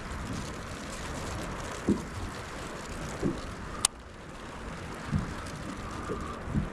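Steady wind and water noise around a kayak on open water, with a few soft low thumps and one sharp click a little under four seconds in.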